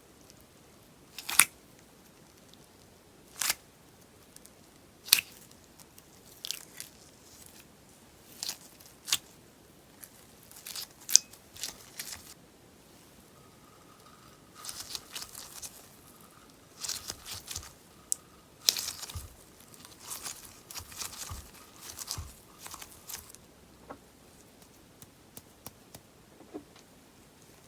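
Popping sponge slime crackling: sharp single pops a second or two apart at first, then bursts of dense popping and crackling through the middle, thinning to a few small ticks near the end.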